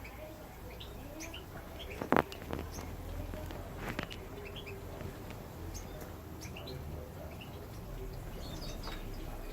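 Small aviary finches giving scattered short, high chirps and twitters. A brief loud noise cuts in about two seconds in, with a smaller one about two seconds later.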